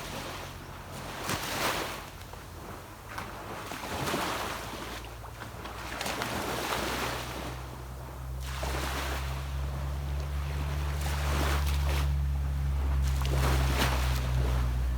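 Sea waves washing onto a beach, surging every few seconds, under the steady low drone of a motorboat's engine out on the water that grows louder from about halfway through.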